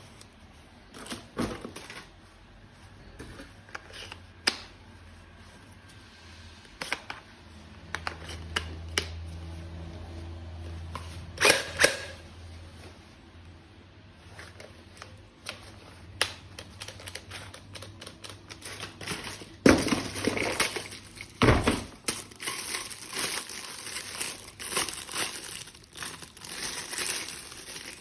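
Plastic packaging crinkling and tearing as a toy is unwrapped, with scattered clicks and knocks from handling hard plastic parts. The crinkling becomes dense and continuous in the second half.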